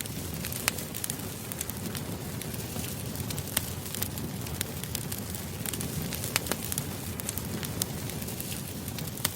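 Wood fire burning: a steady low rushing with irregular sharp crackles and pops, a few each second.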